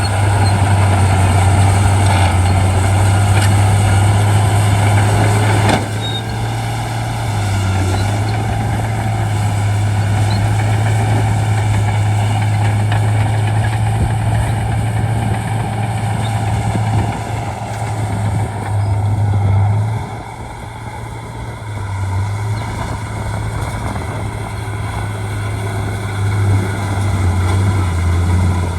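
Diesel engine of a Shantui D95 crawler bulldozer running with a steady low drone. It eases off briefly about six seconds in and again around twenty seconds.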